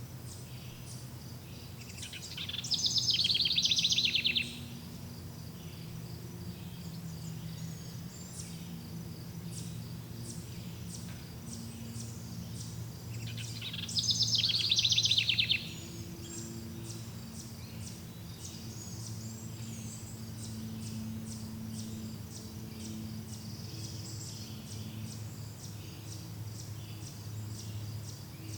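Forest birdsong: a bird sings a loud, rapid trilled phrase twice, about eleven seconds apart, over faint high chirping that runs throughout. A low steady hum lies underneath.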